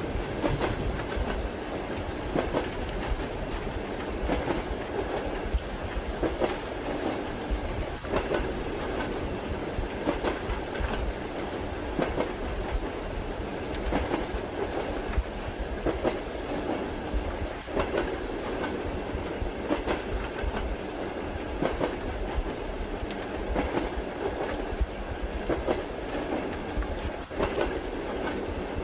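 Inside a moving train carriage: a steady rumble with the wheels clacking over the rail joints at a regular beat, roughly every two seconds.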